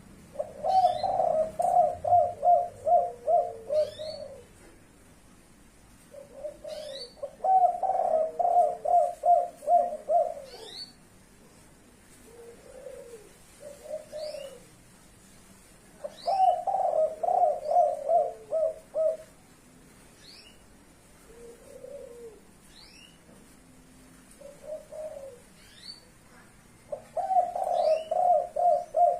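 A spotted dove (tekukur) cooing in four long bouts of rapid, repeated low notes, with softer single coos in the gaps between bouts.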